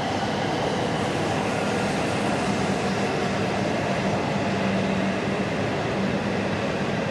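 N700 series Shinkansen bullet train cars running past a station platform: a steady rolling noise with a continuous hum.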